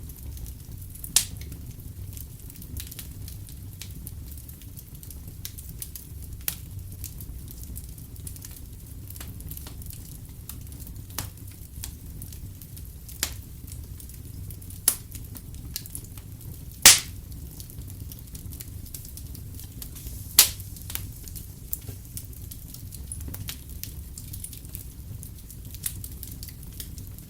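Wood fire in a fireplace crackling, with scattered sharp pops over a low steady rumble; the loudest pop comes about two-thirds of the way through.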